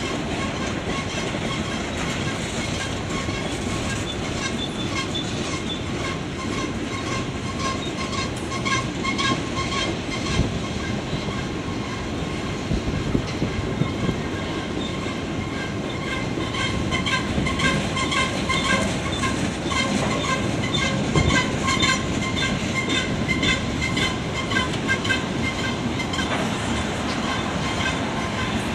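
Freight cars of a slow-moving CSX train rolling past, wheels clacking over the rail joints, with repeated short high-pitched squeals from the wheels that grow more frequent in the second half.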